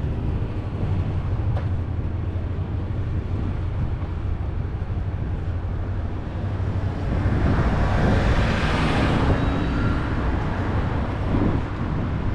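City street traffic rumbling steadily, with a vehicle passing close by about seven seconds in, its noise swelling for a few seconds and then easing off.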